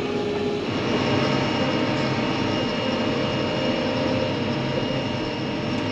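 Fendt tractor driving along, heard from inside the cab: a steady engine and drivetrain hum with a thin whine. A new, higher whine comes in about half a second in and holds steady.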